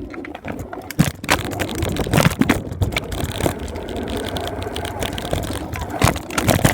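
Y Flicker scooter being ridden: steady rolling wheel noise with rapid rattling clicks.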